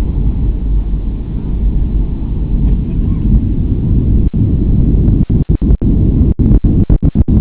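Deep, steady rumble of a jet airliner climbing after takeoff. From about four seconds in, many brief gaps cut into it where the sound drops out for an instant.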